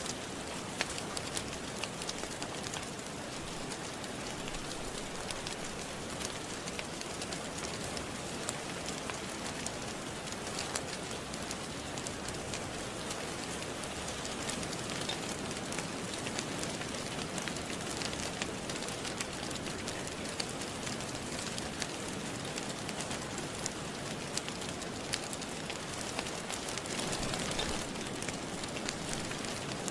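Steady rain falling, mixed with the scattered sharp pops and crackles of a wood fire in a fireplace.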